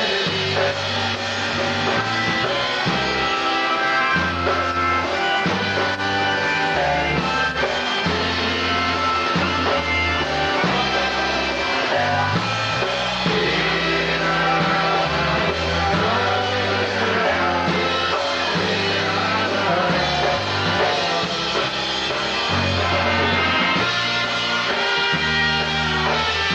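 Live polka band playing a tune, with a bass line that steps between notes in a steady rhythm.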